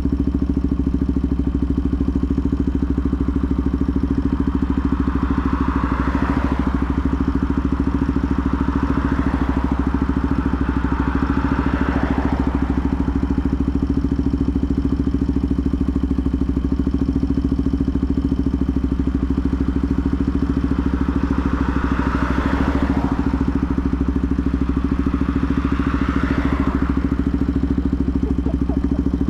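Benelli TNT 125's single-cylinder four-stroke engine idling steadily at an unchanging speed. Four or five swells of noise from passing traffic rise and fade over it.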